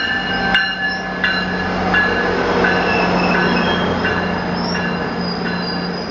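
A passenger train arriving at a station platform: a steady low drone under high wheel squeal, with wheels clicking over rail joints about every 0.7 s. Loud.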